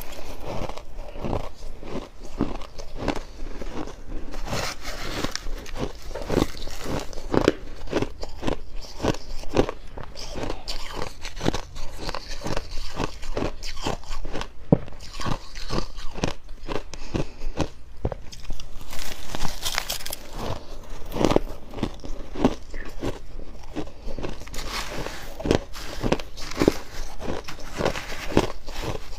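Close-miked biting and chewing of fluffy freezer frost: a steady run of dry crunches, several a second.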